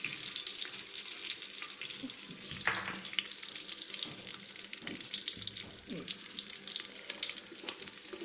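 Chopped shallots and garlic frying in hot oil in a clay pot: a steady sizzling hiss with many small crackles. A single knock about two and a half seconds in.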